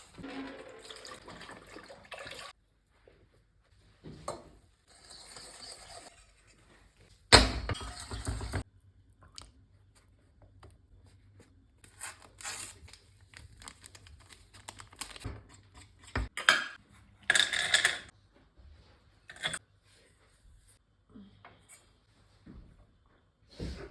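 Household sounds in a series of short bursts: water running briefly several times, with clinks and knocks of dishes in between. The loudest burst comes about seven seconds in, and there is a sharp knock about sixteen seconds in.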